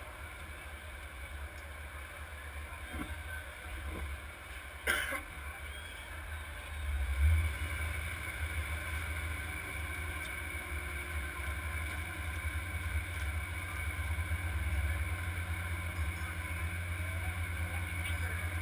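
Demolition derby car's engine idling, heard as a low rumble from inside the car, with a few short knocks about three to five seconds in; the rumble gets louder about seven seconds in.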